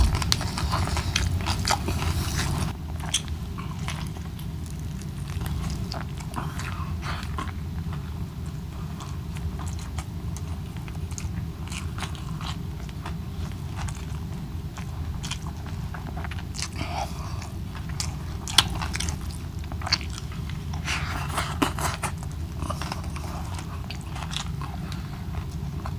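Close-miked chewing and biting, with scattered crisp crunches and clicks, as fried milkfish, rice and adobo-style water spinach are eaten by hand, over a steady low hum.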